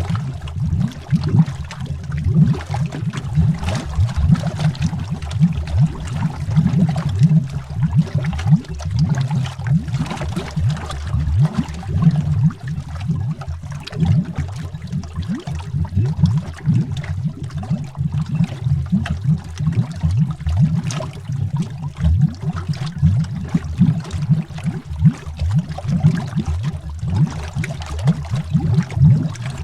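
Air bubbles streaming underwater: a continuous, low, dense bubbling made of many quick, irregular pops.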